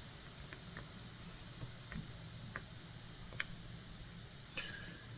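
Faint, irregular ticks and clicks, about seven over a few seconds, of a needle being pushed through cross-stitch fabric and the floss pulled through. The sharpest click comes near the end.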